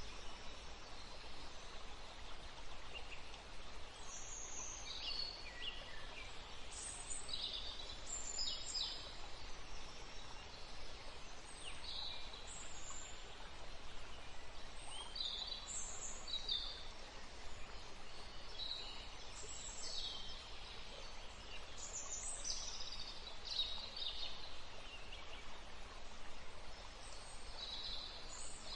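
Several small birds singing, short high chirps and trills every second or two, over a steady hiss of background noise.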